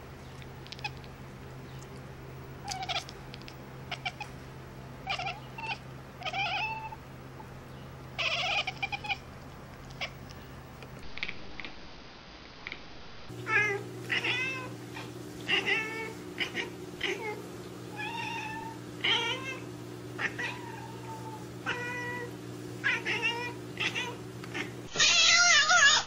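Domestic cats giving a string of short meows with some brief clicks, over a steady low hum. A louder, longer call comes near the end.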